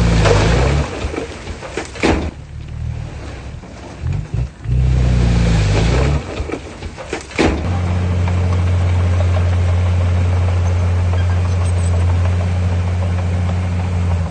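Heavy diesel engine of earthmoving machinery revving up and down under changing load, with a couple of sharp knocks in the first half, then settling to a steady, even note from about halfway.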